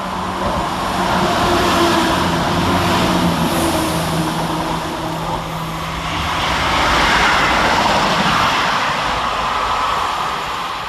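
Scotrail Class 170 and Class 158 diesel multiple units passing. A steady diesel engine drone fades about halfway through, then a rushing wheel-and-rail noise swells and dies away near the end.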